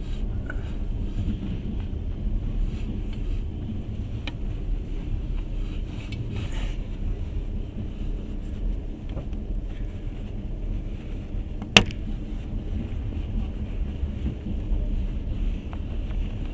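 Passenger train running: a steady low rumble of the carriage in motion, with one sharp click about twelve seconds in.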